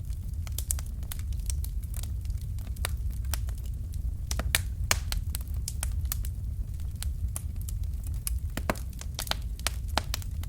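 Fire crackling in a fireplace: irregular sharp pops and snaps, a few louder ones around the middle, over a steady low rumble of the flames.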